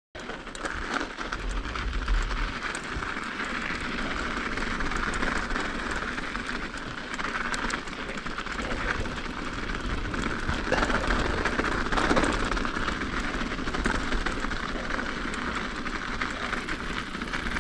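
Mountain bike rolling down an icy trail: continuous tyre noise on ice and frozen snow, with scattered small clicks and rattles from the bike.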